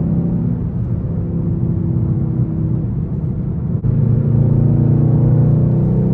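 Straight-piped Infiniti M56's 5.6-litre V8 exhaust with a steady, deep drone. It runs somewhat softer at first, breaks off sharply for an instant about two-thirds of the way through, then comes back louder and holds steady.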